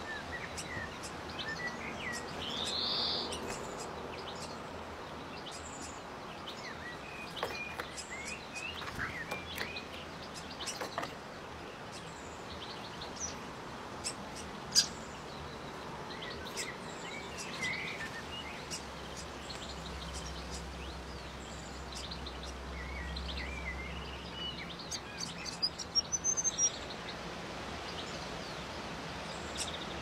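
Scattered short bird chirps and calls over a steady outdoor hiss, with a louder call about three seconds in and a quick run of clicks and chirps near the end.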